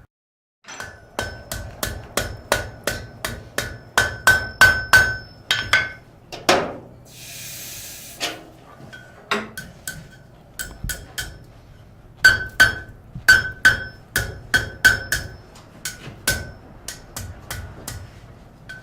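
Blacksmith's hammer striking steel on an anvil, about three blows a second, each with a bright metallic ring. The blows come in two runs, with a pause about a third of the way in that holds a short hiss.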